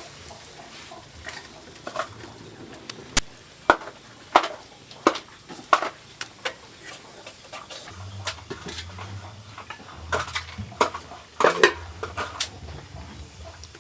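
Kitchen utensil knocking and clinking against cookware, as in stirring a pot: a run of sharp clacks about two-thirds of a second apart, then a busier cluster of knocks a few seconds later.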